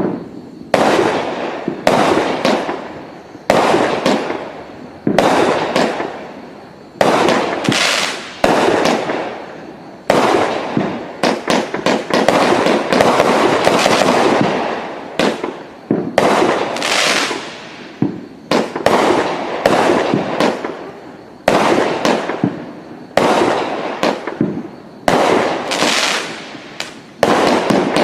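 500-gram consumer firework cake firing a long sequence of shots: each sharp bang trails off into a fading hiss over a second or two, the shots coming every second or so, with a faster run of overlapping shots in the middle.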